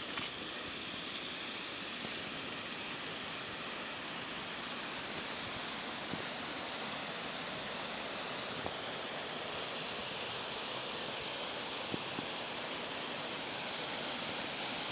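Steady rushing of water from a waterfall, with a few faint clicks now and then.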